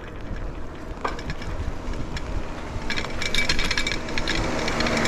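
Bicycle rattling and clattering as it is ridden, with quick sharp clicks that grow much denser about three seconds in.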